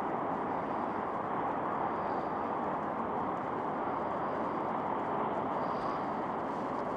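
Steady, even hum of distant highway traffic.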